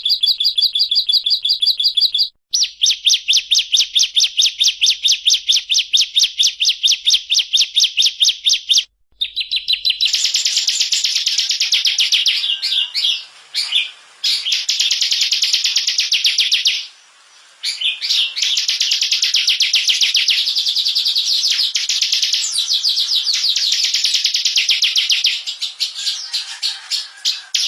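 Ciblek (bar-winged prinia) song: long runs of rapid, high, machine-gun-like repeated notes, the 'ngebren' trill, about six a second at first and faster after about ten seconds. The recording is spliced, with abrupt cuts and short breaks between segments.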